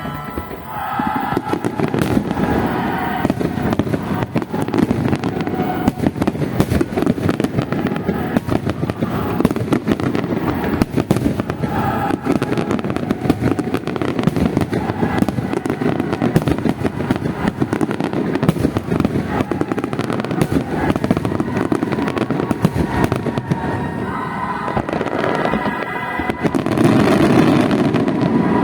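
Fireworks display: a continuous barrage of bursts and crackling, growing louder near the end.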